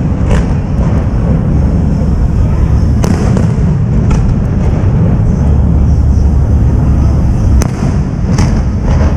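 Fireworks display: a continuous deep rumble of shells bursting, with a sharp crack about five times.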